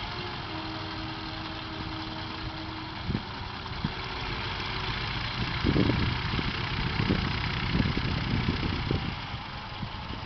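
Light propeller aircraft's engine droning steadily as it climbs out slowly after takeoff. From about halfway through, irregular low bumps rumble on the microphone.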